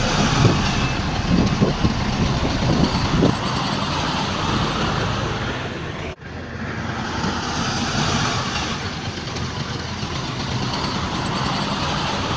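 Heavy diesel earthmoving machinery running steadily, with a few short knocks in the first three seconds. The sound drops out for an instant about six seconds in.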